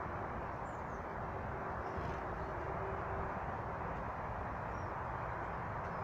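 A few faint, short, high chirps of small birds over a steady low rushing background noise with a faint hum.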